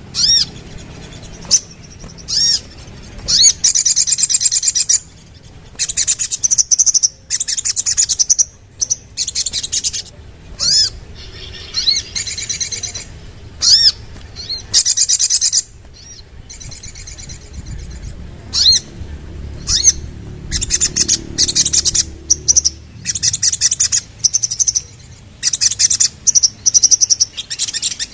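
Sogon (sogok ontong) sunbird singing: high-pitched rapid trills and sharp chirps in short bursts, many per few seconds, some with quick swooping notes.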